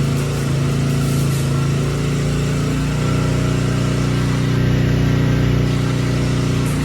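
An engine running steadily at a constant speed: a low, even hum.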